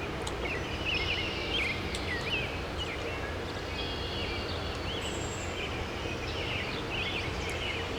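Small birds chirping repeatedly over a steady outdoor background hum.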